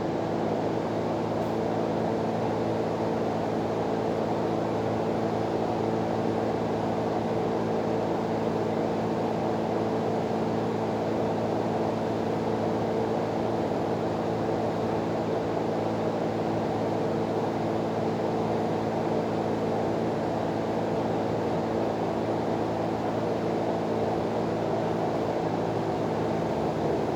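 Steady mechanical drone: a low hum made of several even tones over a rushing noise, holding the same level and pitch throughout.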